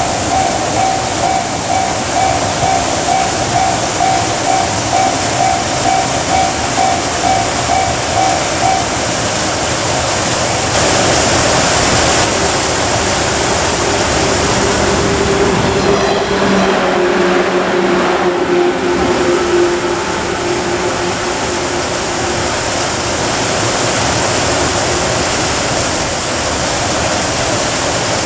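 Japanese level-crossing warning bell ringing about twice a second, then a Shinano Railway 115 series electric train running over the crossing from about ten seconds in, a loud steady rush of wheels on rails with a humming tone in the middle of its passing.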